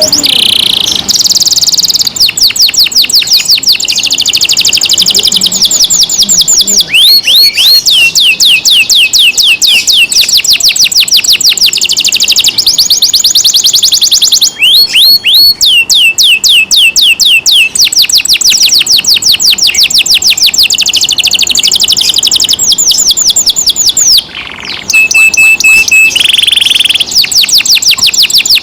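Domestic canary singing loudly in long, rapid trills of quickly repeated falling notes. About three-quarters of the way through, the song breaks briefly into a steady held whistle before the trills resume.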